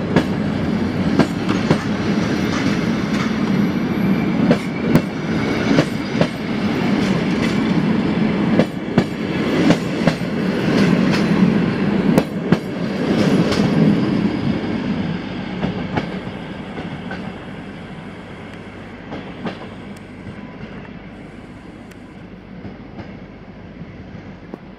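Passenger coaches of a locomotive-hauled train rolling past, wheels clacking over rail joints with irregular sharp clicks over a steady rumble. The sound fades as the last coach draws away, about two-thirds of the way through.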